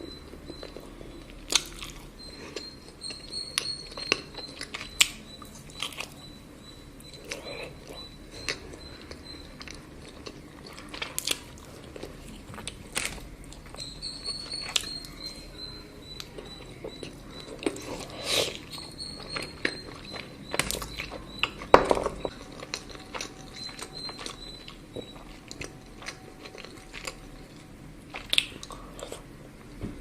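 Close-miked eating of chocolate: irregular crisp bites and crunches with chewing in between, the loudest crunch about two-thirds of the way through.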